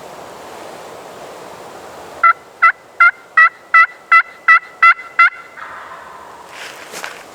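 A run of nine loud, evenly spaced turkey yelps, about three a second, starting a couple of seconds in.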